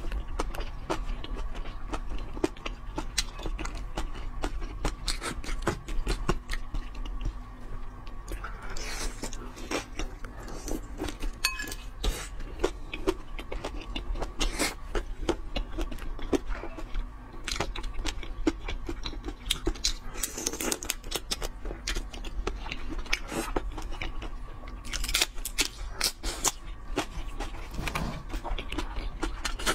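Close-miked eating of a large prawn: wet chewing, lip smacks and dense irregular clicks and crackles of the shell and fingers, with a faint steady hum underneath.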